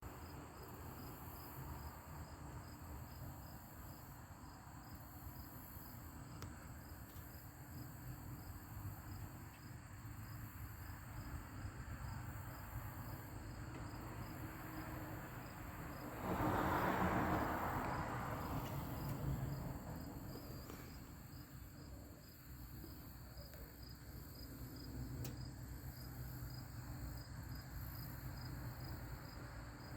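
Insects chirring steadily outdoors, a high, evenly pulsing trill, over low wind rumble on the microphone. About halfway through, a louder rush of noise swells suddenly and fades away over a few seconds.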